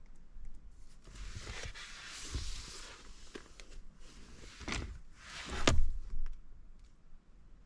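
Rustling and handling sounds at a desk, then two knocks, the second one the loudest, as things are moved and set down.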